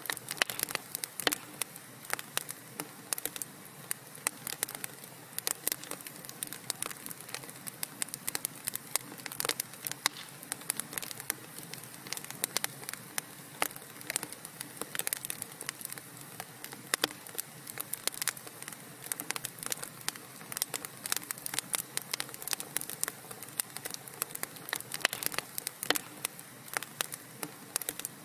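Wood fire burning in a fireplace, crackling continuously with many irregular sharp pops and snaps over a soft hiss.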